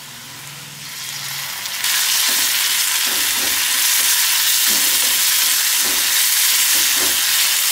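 Tamarind water poured into a hot clay pot of bitter gourd and shallots sautéing in coconut oil, the sizzle jumping suddenly louder about two seconds in. A spoon then stirs the mix, scraping against the pot a few times over the steady sizzle.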